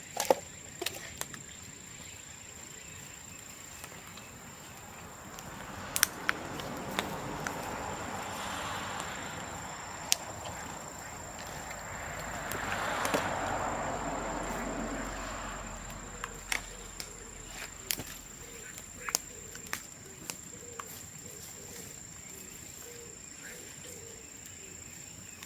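Bamboo bonfire crackling, with scattered sharp pops and cracks as the burning bamboo splits, and two longer rushing swells in the middle.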